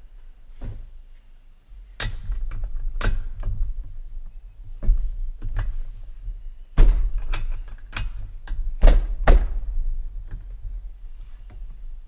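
Irregular sharp knocks, clicks and thunks, a dozen or more, as a chainsaw is handled while its spark plug is checked for tightness. The loudest knocks come in the second half.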